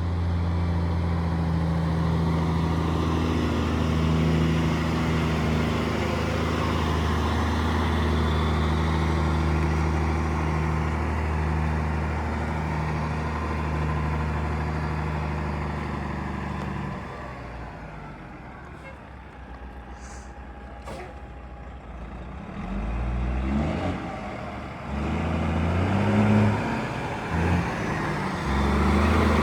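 Kenworth T800 dump truck's Detroit Series 60 inline-six diesel running steadily under load for most of the first half, then dropping off. A short air hiss comes around the middle, then the engine revs up in repeated climbs as the truck pulls away and works up through the gears of its 13-speed manual.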